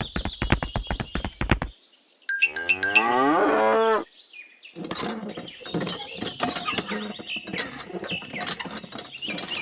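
A run of rapid clicks, about eight a second, stops suddenly. Then a cow moos once, loudly, for under two seconds. After that comes a busy jumble of clicks and short tones.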